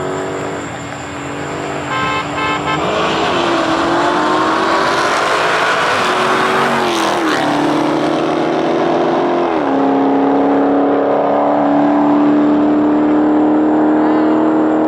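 A car engine accelerating hard under full throttle, its pitch climbing and dropping back at each upshift about three times, then holding a steady high drone.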